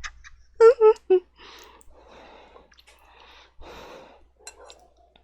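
A woman makes three short 'mm' hums, then slurps and chews black bean noodles (jajangmyeon) in a run of soft, wet, breathy bursts.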